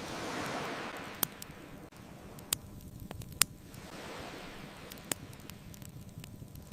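Ocean waves washing in and drawing back in slow surges, one near the start, another in the middle, and a third building near the end. Over them a wood bonfire crackles, with four sharp pops standing out among fainter ticks.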